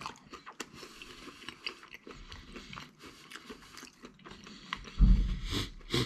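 A man chewing a mouthful of pizza, with soft wet clicks and light crunching. About five seconds in there is a louder low thump.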